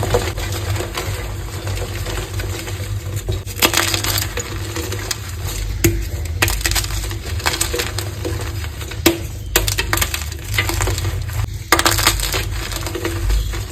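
Green gym chalk balls being crushed: steady gritty, squeaky crunching broken by a few sharp snaps as pieces crack.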